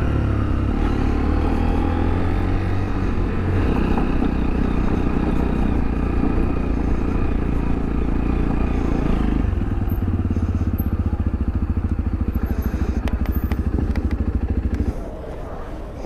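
Sinnis Terrain T125's single-cylinder 125cc four-stroke engine running at low revs as the bike rides slowly. About two-thirds of the way in it settles to an even idle, and it goes quiet near the end as the engine is stopped.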